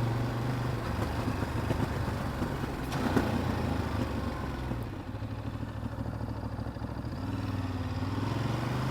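Ducati DesertX's 937 cc L-twin engine running while riding. About five seconds in it drops to a quieter, lower note for a couple of seconds, then picks back up.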